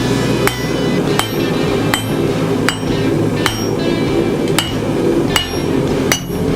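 Steady blacksmith hammer blows on a hot chain-damascus steel billet on the anvil, about eight strikes at an even pace of a little over one a second, each with a short metallic ring, over a steady low drone.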